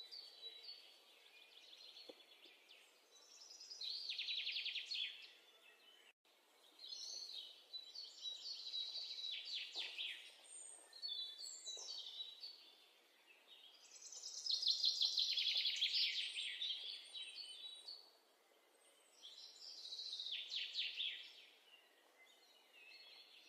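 A songbird singing in trilled phrases of two to three seconds with short pauses between them, the loudest phrase about two-thirds of the way through.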